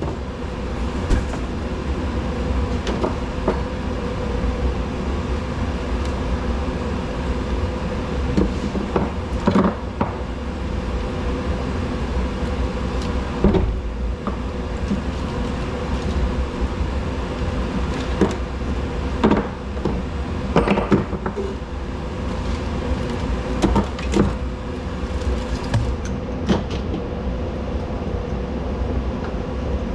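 Steady machine drone with a constant low hum, broken by irregular clinks and knocks, about a dozen over the stretch.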